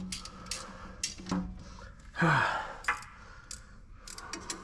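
Scattered light metal clicks and clinks of hand tools working on bolts, with a man's loud exhaled sigh, falling in pitch, about two seconds in.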